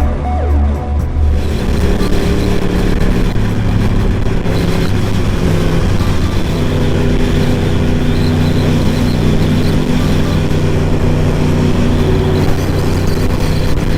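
Motorcycle engine running at a fairly steady pitch while riding, over a constant rushing noise.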